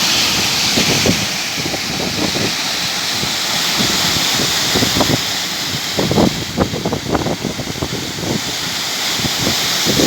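Waterfall rushing loudly and steadily, with wind buffeting the microphone in irregular low gusts.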